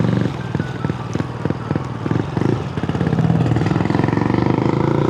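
Honda Grom's single-cylinder four-stroke engine, big-bored to about 149 cc. It runs at low revs with a pulsing beat for the first few seconds, then from about three seconds in it rises steadily in pitch and gets louder as the bike accelerates.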